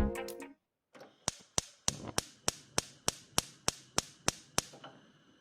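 Background music ending, then a dozen or so sharp, evenly spaced taps, about three a second.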